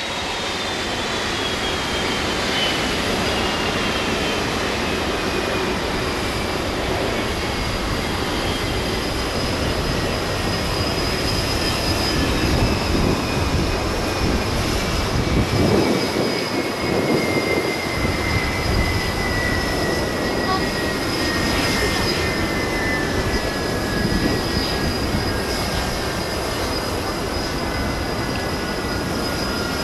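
Jet engines of a Boeing 777 freighter on approach: a steady rushing roar with a thin engine whine that falls slowly and steadily in pitch.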